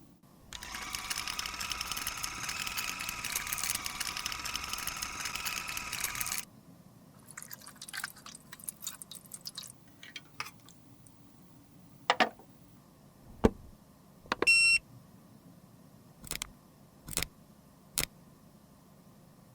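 A steady whirring noise, like a small motor or blower, runs for about six seconds and cuts off suddenly, followed by a string of sharp clicks and taps and a brief high-pitched beep near the middle of the rest.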